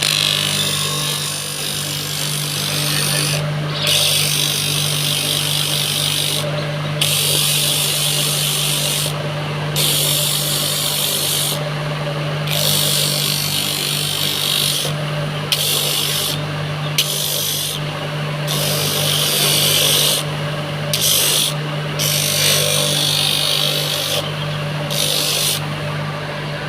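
A power tool's motor runs steadily while it is worked against wood in repeated passes of a few seconds each. A rasping hiss comes in with each pass and drops away in the short breaks between them, while the motor hum carries on.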